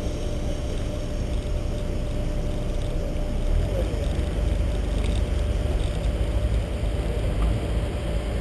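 Car engine running as the car rolls slowly at low speed, heard through a camera mounted on the hood: a deep, steady rumble with a constant hum on top.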